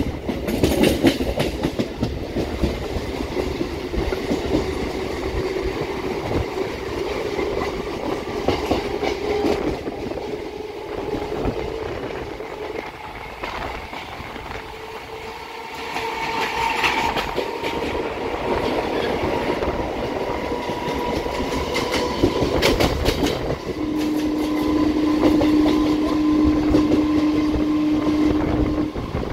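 Electric local train running at speed, heard from an open door: steady rumble and rail clatter with a whine that slowly rises in pitch, mixed with the wheels of a container freight train passing on the next track. A steady tone sounds for about five seconds near the end.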